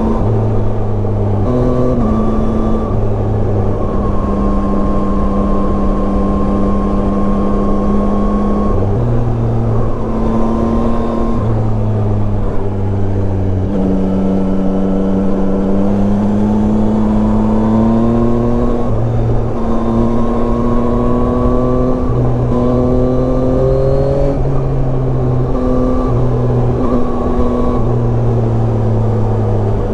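Yamaha Tracer 9's 890 cc inline three-cylinder engine running under way. Its pitch rises and falls with the throttle, with several sudden steps up and down in pitch.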